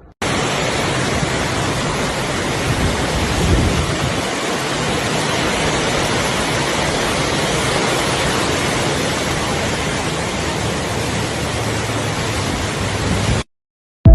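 Heavy rain pouring down in a dense, steady hiss, with a low rumble swelling about three to four seconds in. It cuts off suddenly near the end.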